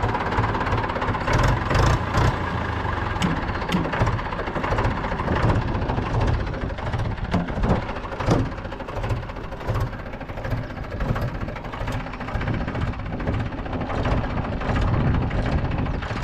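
Mahindra 475 DI tractor's four-cylinder 2.7-litre diesel engine idling steadily, with an even low pulsing and a few short clicks.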